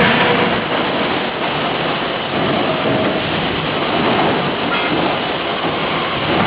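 A single sharp blow from a 50 kJ closed-die forging hammer right at the start, followed by a loud, steady mechanical din of the running machinery until the next blow.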